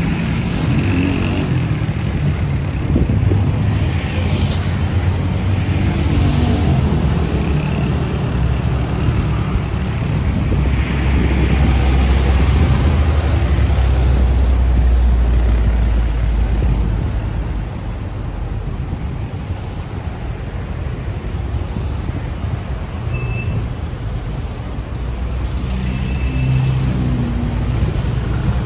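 City street traffic: vehicles running and passing, a steady wash of engine and tyre noise. A deep engine rumble swells in the middle and eases off about two-thirds of the way through.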